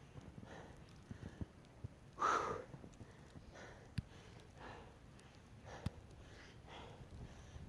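A person breathing hard from exertion during a bodyweight workout, with quick repeated puffs of breath. There is a louder exhale about two seconds in and two sharp taps later on.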